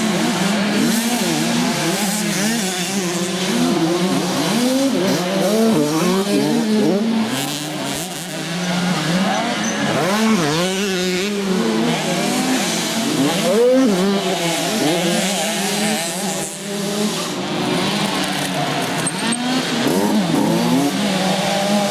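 Several motocross bikes racing, their engines revving up and down in overlapping rising and falling pitches as riders accelerate and back off, over a steady engine drone.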